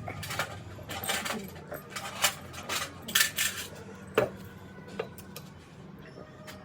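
Small metal parts clinking and rattling against each other and a hard surface: a string of sharp knocks, the loudest about two, three and four seconds in, thinning out near the end.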